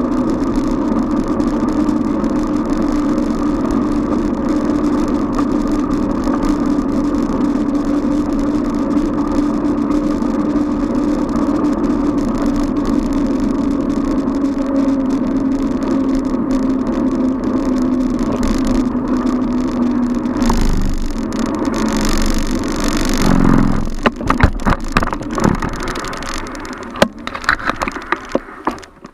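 Road noise from a bicycle riding through traffic: a steady hum that slowly drops in pitch for most of the time. About two-thirds of the way in it gives way to a brief rush of noise, followed by a string of uneven knocks and rattles near the end.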